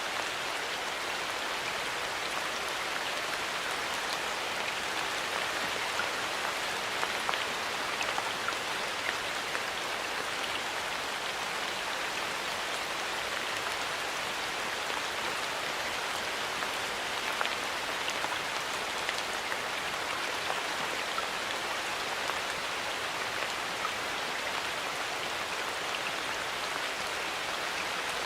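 Steady rain falling in a forest, an even hiss with scattered individual drops ticking.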